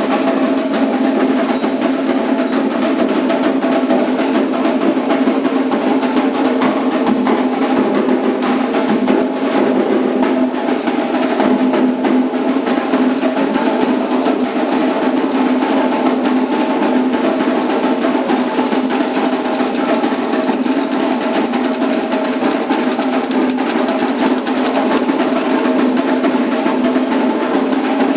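Candomblé ritual drumming on atabaque hand drums, a fast, dense rhythm that keeps going without a break.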